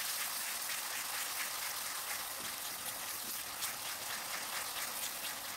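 Ground spice paste of shallots, garlic and turmeric sizzling steadily in hot oil in a wok as it is sautéed, with faint crackles and stirring by a wooden spatula.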